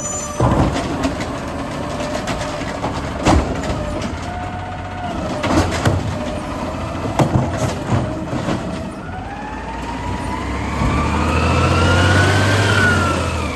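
Garbage truck collecting: several sharp metallic bangs over the running engine as a cart is dumped and slammed, then the engine revs up with a rising hydraulic whine that peaks and falls away near the end.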